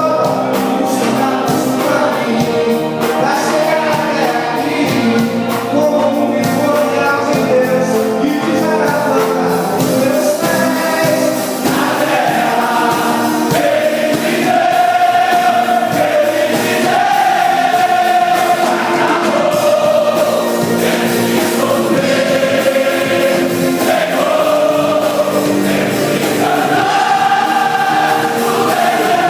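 Gospel music with a choir singing over instrumental accompaniment, sustained notes held and bending in pitch.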